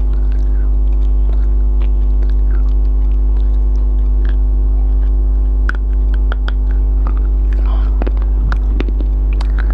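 Loud, steady electrical mains hum under close-miked eating sounds: scattered sharp clicks, smacks and chewing as biryani is eaten.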